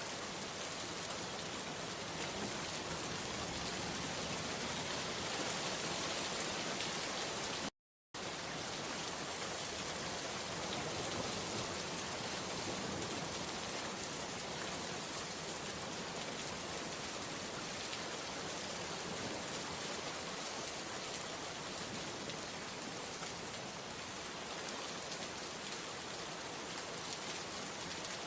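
Steady, dense rainfall pattering on surfaces, with a brief complete cut to silence about eight seconds in before the rain resumes.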